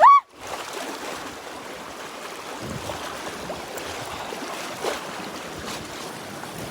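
River rapids rushing as a steady noise, with wind on the microphone. Right at the start there is a short, loud, high-pitched cry that rises and falls.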